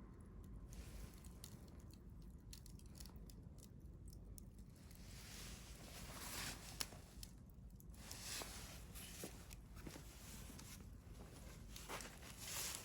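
Wood campfire burning with faint crackling: scattered small pops and soft hissing, with one sharper pop about seven seconds in.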